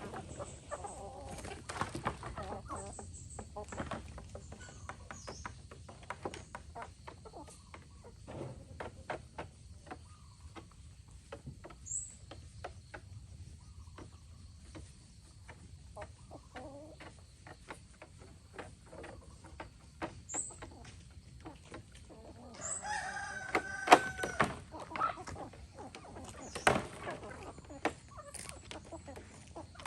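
Free-range chickens clucking, with many sharp clicks and taps scattered throughout. A rooster crows once, long and held, about three-quarters of the way in; this is the loudest sound.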